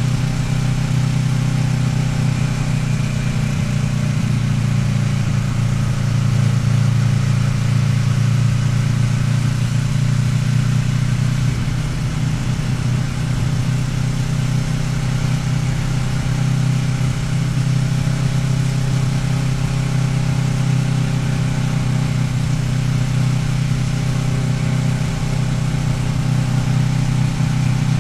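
Kawasaki Ninja 650R's parallel-twin engine running at a steady, even pitch while riding, with light rushing noise over it.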